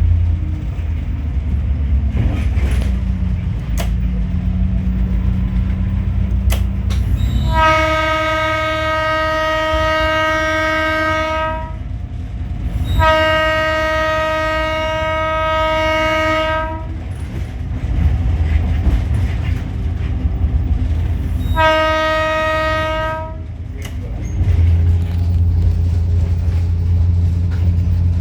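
Train horn sounding three single-note blasts, two long ones of about four seconds each and a shorter one a few seconds later, over the steady low rumble of the running train.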